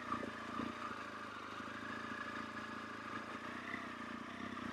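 BMW R1200GS boxer-twin engine running steadily.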